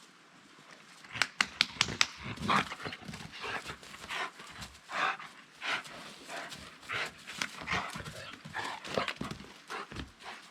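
Sounds of a dog close by: a quick run of sharp clicks about a second in, then short, irregular rustling sounds every half second or so.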